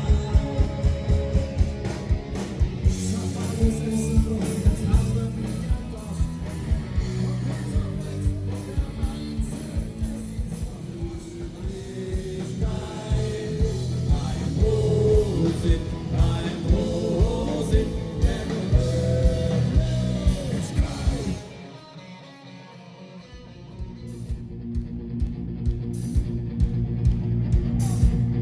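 Live band music with a steady drum beat and guitar, played over a loud PA without recognisable sung words. About three quarters of the way in the band briefly drops out, then the music builds back up.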